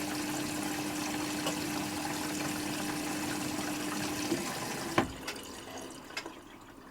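Hoover Quattro washing machine running water through during its rinse: a steady rush of water with a hum, which stops a little after four seconds in, followed by a sharp click about five seconds in and a few lighter clicks as the sound dies away.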